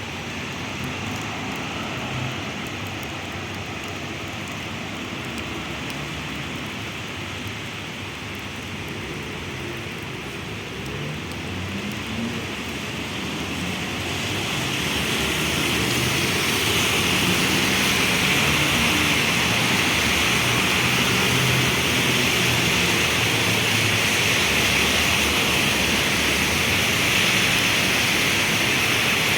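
Heavy rain falling and splashing on a city street, with a low traffic rumble beneath it. The rain grows louder about halfway through and then stays steady.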